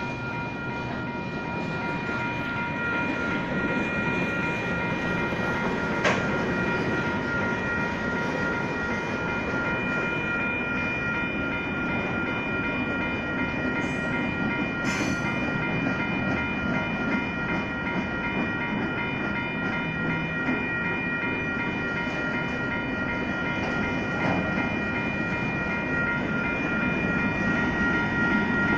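Freight cars of a Union Pacific manifest train rolling steadily past, steel wheels clattering on the rails. The crossing's WCH Type 1 bells ring continuously over the train noise. There is one sharp knock about six seconds in.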